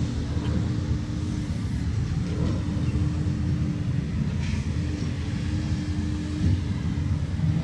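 A passenger train car rolling slowly along the track toward the listener, a steady low rumble with a faint hum that comes and goes.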